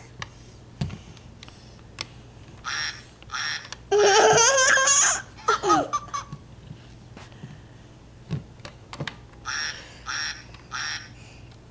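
A toddler giggling in short bursts, mixed with the electronic sound effects of a Sesame Street push toy: a warbling stretch and a falling glide about halfway through.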